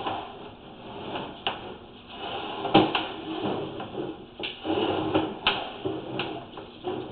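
Sewer inspection camera's push rod being moved through the sewer lateral: a rustling scrape with irregular sharp knocks, several of them close together in the second half.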